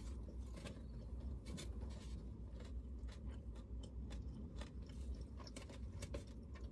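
Close-up chewing and crunching of bacon and hash brown: irregular crisp clicks with each bite and chew, over a steady low hum.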